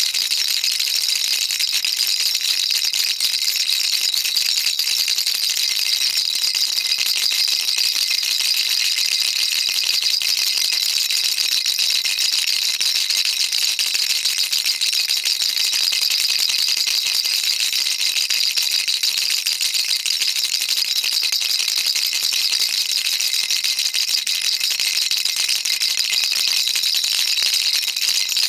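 Baby rattle shaken steadily without a break: a dense, even stream of small hard clicks, high-pitched with no low end.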